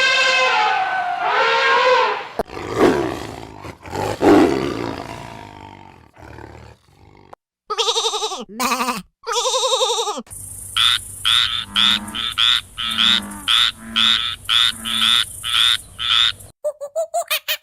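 A run of different recorded animal calls, one after another. First a long pitched call that tails off, then a rough roar that fades out, then two wavering calls, and finally a quick string of short repeated calls, about two a second.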